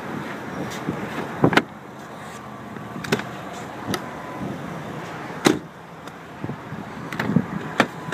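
Steady vehicle noise, with four sharp clicks spaced a second or two apart.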